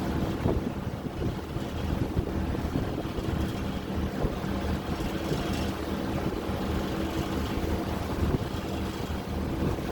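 Lake ferry's engine running with a steady, even hum, under the rush of wind and water.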